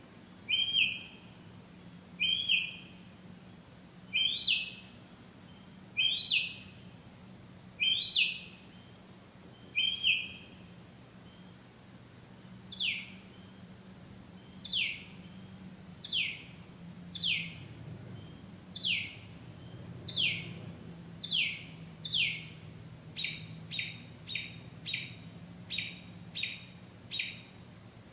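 A bird singing in repeated phrases. It first gives a short note about every two seconds, then switches partway through to a downward-sliding whistle repeated about once a second, and near the end to quicker short notes about two a second.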